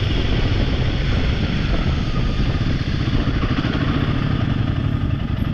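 Royal Enfield motorcycle engine running steadily under way, a continuous low rumble.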